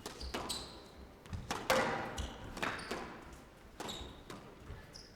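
Squash rally: the ball smacking off rackets and the court walls at irregular intervals, about eight hits, the loudest about a second and a half in, with short high squeaks of court shoes between them.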